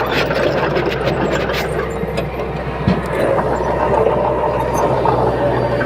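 Bulldozer diesel engine running steadily, with a few sharp clicks in the first second or so and a single knock about halfway through.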